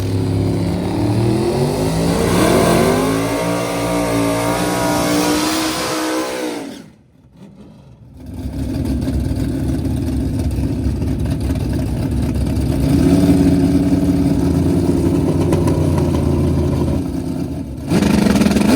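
Drag race car engine at full throttle, its pitch climbing as the car accelerates down the strip. The sound drops away suddenly for about a second and a half, then the engine runs on steadily, with a louder burst near the end.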